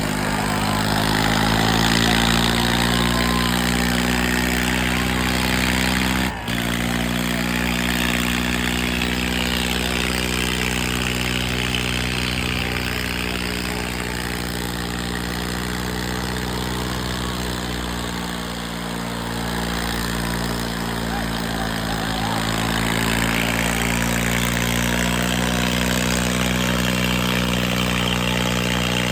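Tractor diesel engine running steadily, its pitch wavering slightly, with a brief break in the sound about six seconds in.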